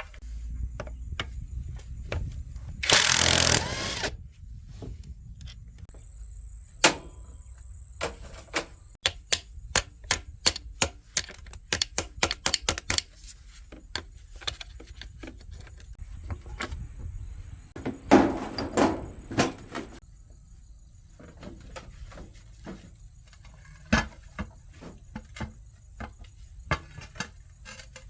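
Workshop work on metal parts: a string of sharp clicks and knocks, with a loud burst of hiss lasting about a second near the start and another noisy rattling stretch later on.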